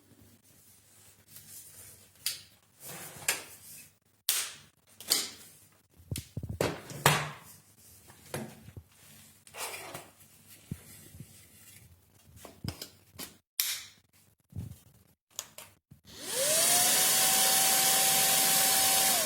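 Cordless handheld vacuum cleaner: a string of short clicks and knocks, then about three seconds from the end the motor is switched on. Its whine rises quickly and settles into a steady pitch over the loud rush of suction air.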